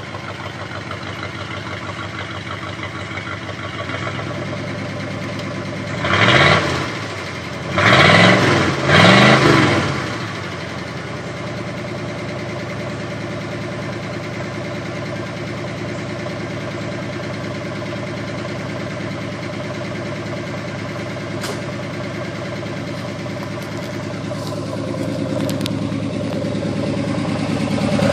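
1985 Ford Ranger's straight-pipe exhaust with a 2½-inch turndown, the engine idling steadily with three short revs about six to ten seconds in, then back to idle and getting louder toward the end.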